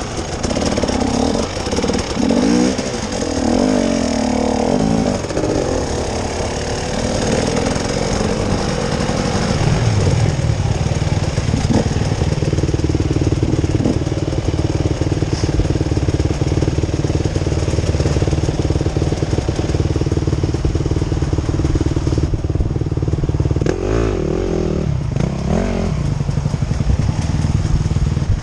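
An off-road vehicle's engine under way. Its pitch rises and falls for the first few seconds, then it runs steadily at a constant speed, with a short drop and pick-up in revs near the end.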